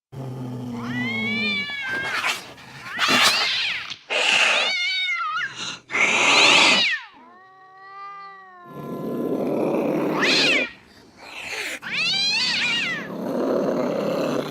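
Domestic cats yowling and caterwauling in a string of separate, wavering cries, some rising and falling in pitch, broken by harsh noisy stretches: the threatening calls of angry cats.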